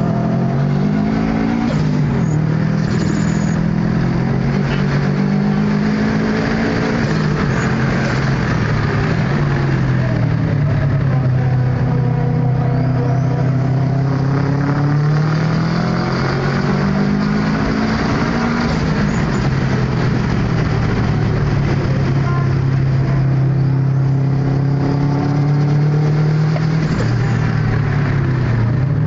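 Heavily tuned 2004 Subaru Impreza WRX's turbocharged flat-four, heard from inside the cabin under hard driving. The revs climb and then fall away several times.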